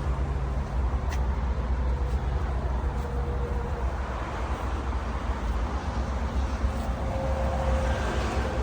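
Pickup truck engine running steadily at idle.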